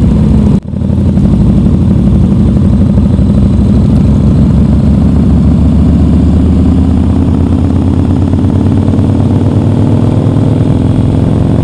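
Big V-twin motorcycle engines with aftermarket exhaust pipes running loudly and steadily. The sound drops out for an instant about half a second in.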